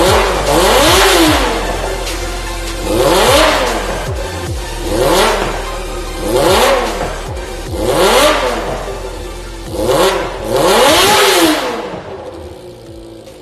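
Kawasaki ZX25R's 250 cc inline-four revving through a Racefit Slash titanium full-system exhaust: a string of throttle blips, the pitch climbing and falling about once every second and a half, dying away near the end.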